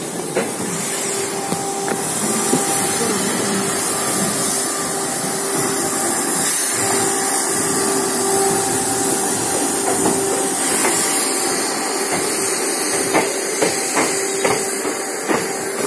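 Running noise of a passenger train heard from aboard a moving coach: a steady rumble and rushing hiss with a steady hum under it, and several sharp clacks of the wheels over rail joints and points, most of them in the last few seconds.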